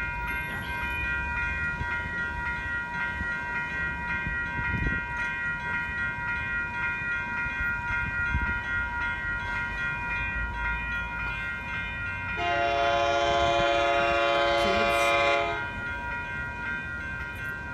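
Train horn sounding one long blast of about three seconds, a chord of several tones, starting about two-thirds of the way in. A steady high ringing runs underneath throughout.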